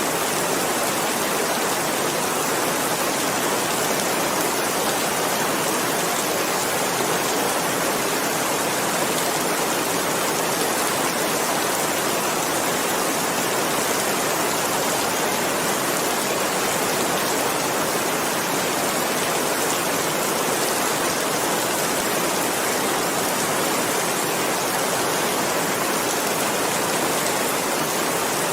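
Steady rain: a dense, even hiss of falling rain that does not change.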